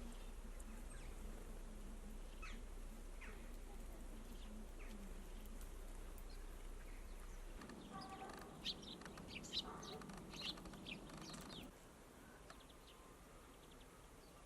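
Small songbirds giving short scattered chirps, with a busier, louder flurry of calls from about eight to eleven seconds in, over a faint low hum that stops about halfway through.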